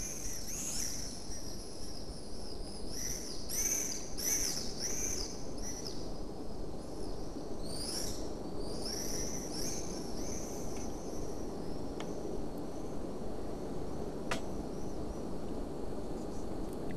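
Birds chirping in clusters of short high notes over a steady background hiss of outdoor ambience, with one sharp tick about two-thirds of the way through.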